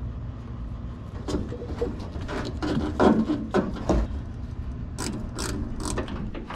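Hand work on car parts: an irregular run of clicks, knocks and scrapes as parts and tools are handled, with a pause in the middle.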